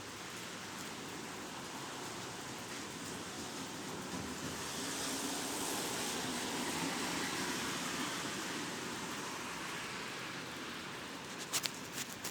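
Steady rain noise that swells and fades over a few seconds in the middle, like a car passing on a wet road, with a few sharp clicks near the end.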